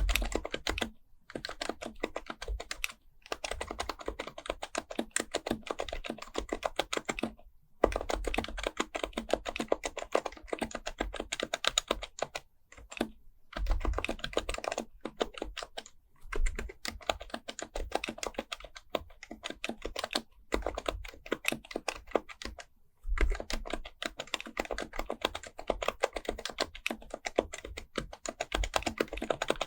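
Typing on an HHKB Professional Type-S keyboard: a fast, steady run of soft key clicks from its dampened Topre capacitive switches, broken by several short pauses.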